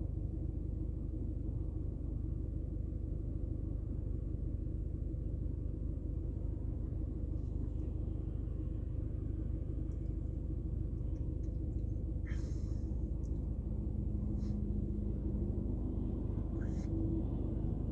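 Steady low rumble of a car on the move, with a faint steady hum and a couple of brief clicks in the second half.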